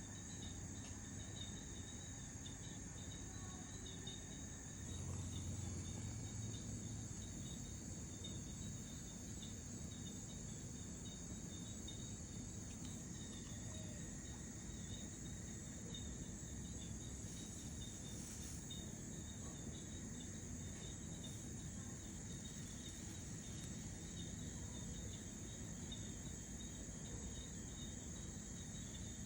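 Crickets trilling steadily, with a low hum underneath that swells briefly about five seconds in.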